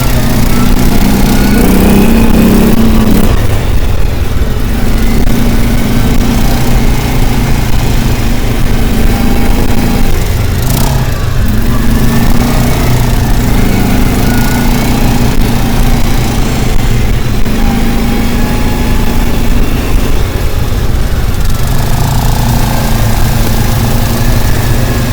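A motor engine running loudly and steadily, its pitch shifting slightly every few seconds.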